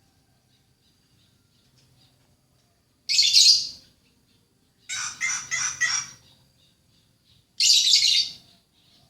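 A bird calling three times. There is a harsh call about three seconds in, a quick run of about five notes a couple of seconds later, and another harsh call near the end.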